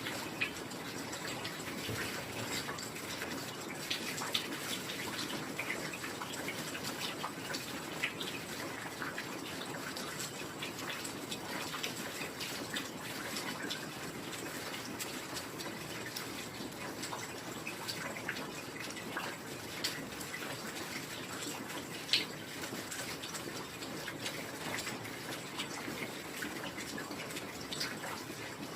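Steady heavy rain: an even hiss with many small, sharp drop ticks scattered through it, and one louder tick about 22 seconds in.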